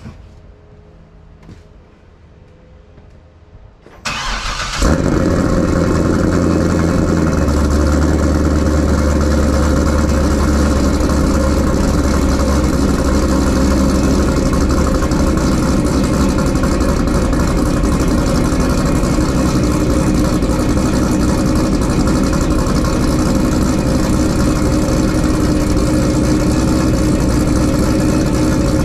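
Supercharged 2012 Corvette Grand Sport's 6.2-litre LS3 V8 cold-started. About four seconds in it cranks briefly and fires with a rev flare, then settles into a steady idle through the quad exhaust.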